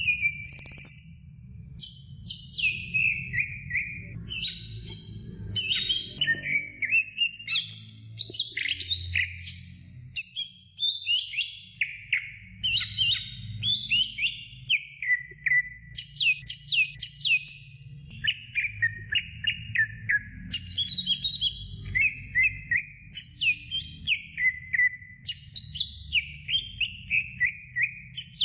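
Green leafbird (cucak ijo) singing a long, varied song of rapid chirps and quick downward-sliding whistles, with a low steady hum underneath.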